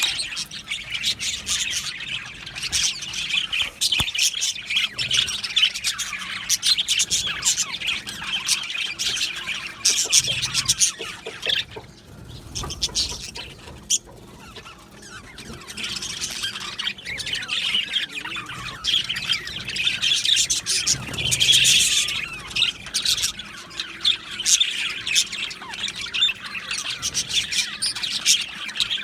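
A flock of budgerigars chattering and chirping in an aviary, many birds at once with rapid overlapping chirps and squawks. The chatter eases briefly near the middle and then picks up again.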